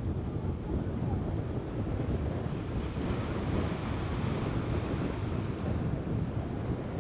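Wind buffeting the microphone over the sea, a continuous low rushing noise with surf beneath it.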